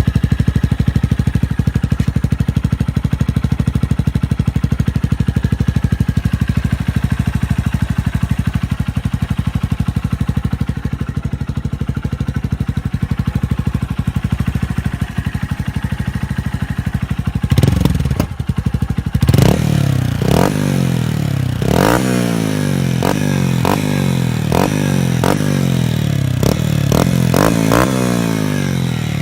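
Honda CBF 125's single-cylinder four-stroke engine through an aftermarket sport exhaust, idling with a steady, even exhaust beat for about the first 17 seconds. After that the engine speed rises and falls again and again, the pitch climbing in repeated sweeps.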